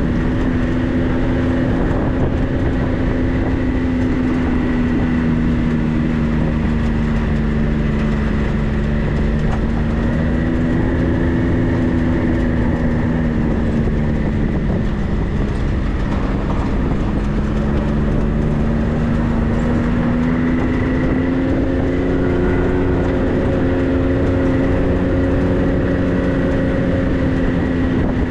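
A 4x4 driving slowly on a muddy dirt road, heard steadily: engine hum whose pitch rises and falls gently, dipping about halfway through, over a continuous rumble of tyres on the rough surface.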